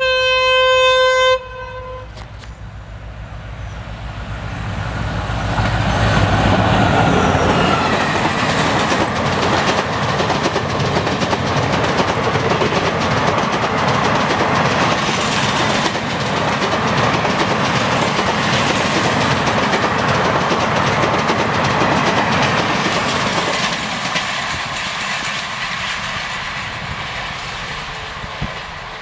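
Indian Railways passenger train: the locomotive sounds one horn blast of about a second and a half, then the train approaches and passes. A steady rising rumble gives way to rapid clickety-clack of the coach wheels over the rails, which fades near the end.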